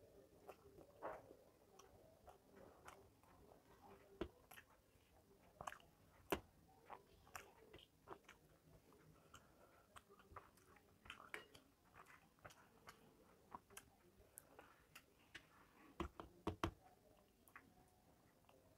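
Faint close-miked mouth sounds of a person chewing rice and fish eaten by hand, with scattered short sharp clicks and ticks; the loudest come about six seconds in and twice near the end.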